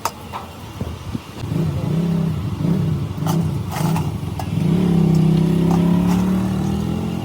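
An engine running: it rises in four short revs, then holds a steady, higher note, with a few sharp metallic clicks over it.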